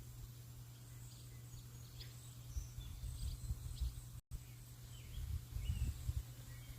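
Faint, scattered bird chirps over a low, uneven rumbling noise, with the sound cutting out for an instant about four seconds in.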